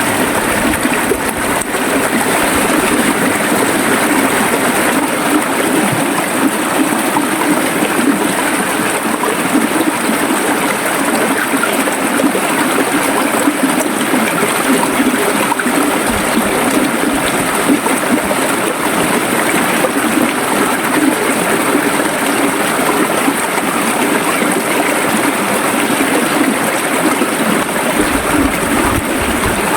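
River water flowing and gurgling over rocks: a steady, even rush of water with no breaks.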